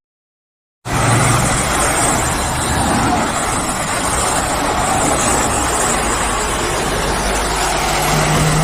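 A motorcycle running at steady speed, with a low engine drone under heavy wind and road rush. It cuts in after about a second of silence, and the pitch holds steady with no revving.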